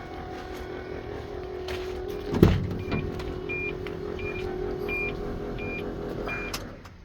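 Hino truck running with a steady hum. A single thump comes about two and a half seconds in, then a short high-pitched beep repeats six times, about every 0.7 seconds.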